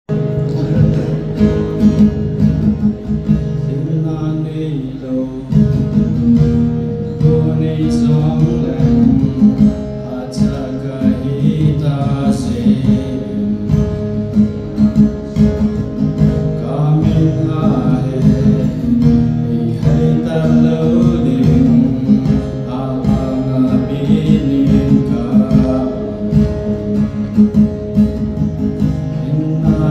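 Strummed acoustic guitar accompanying singing.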